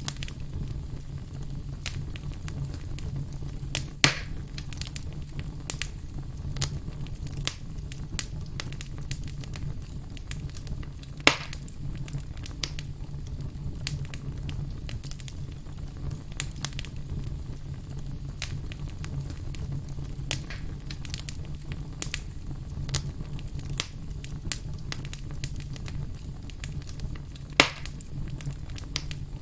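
Burning firewood crackling steadily with frequent small, irregular pops and three louder snaps spread across the time, over a low steady rumble.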